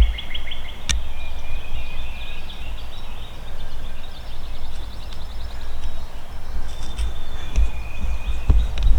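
Songbirds singing: a fast high trill that stops about a second in, followed by thin whistled notes and another faint trill, over a steady low rumble on the microphone. A single sharp click sounds about a second in.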